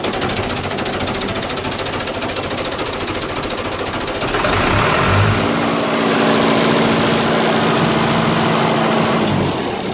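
Fiat 640 tractor's four-cylinder diesel engine running with a knocking diesel clatter. About halfway through it is revved up and holds a higher, steadier note, then drops back just before the end.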